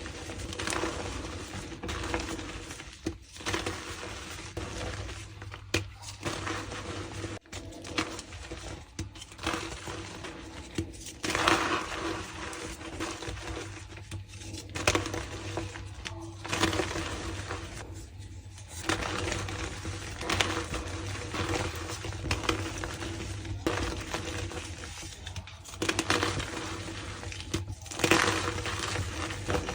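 Reformed gym chalk blocks being crushed, a dense crunching and crackling with sharper snaps and louder crunches every few seconds.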